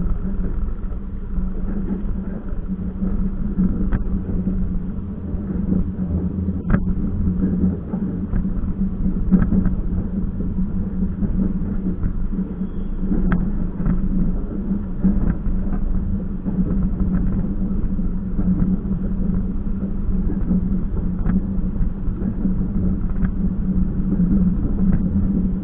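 Steady running rumble of a moving train heard from inside a carriage, with a constant low hum and scattered short clicks and knocks, the sharpest about seven seconds in.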